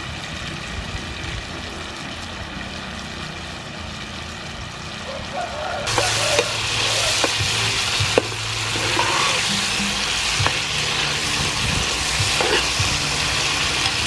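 Clams and strips of sweet pepper frying in oil in a pan: a low sizzle that jumps to a loud, hissing sizzle about six seconds in, with scattered sharp knocks as the food is stirred.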